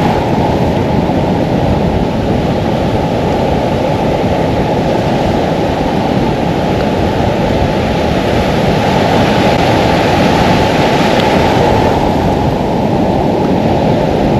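Surf washing along the shore in a steady rush, mixed with wind on the microphone.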